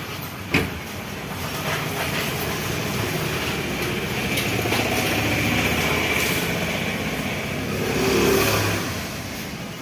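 A motor vehicle's engine running, swelling in level to its loudest near the end and then easing off, with a sharp click about half a second in.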